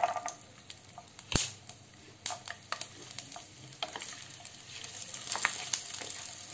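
Green chillies, garlic cloves and ginger sizzling and crackling in hot oil in a frying pan, with scattered spits and a wooden spatula moving them around. There is one sharp click about a second and a half in, and the sizzle grows louder near the end.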